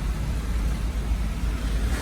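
Hurricane-force wind and torrential rain, a steady rushing noise with heavy, uneven wind rumble on the microphone.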